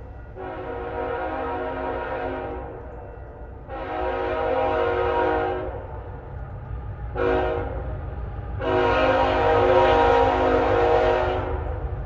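Diesel freight locomotive's horn sounding the grade-crossing signal: two long blasts, a short one, then a final long one, the last the loudest. Beneath it the low rumble of the locomotives runs throughout.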